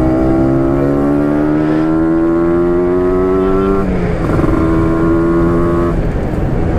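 Yamaha RX King's 135 cc single-cylinder two-stroke engine pulling under acceleration, its pitch rising steadily for about four seconds, then dropping suddenly at a gear change and holding steady after it.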